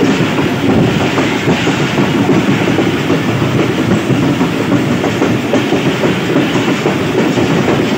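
Passenger train running at speed: the steady rumble and clatter of its wheels on the rails, heard from inside the moving coach.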